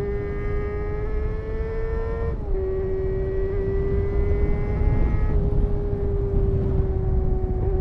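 Honda CBR250RR MC22's inline-four engine running at high revs on the move, with a quick upshift about two seconds in and then holding a steady high note. Its sharper overtones drop away about five seconds in, with a low wind rush on the microphone throughout.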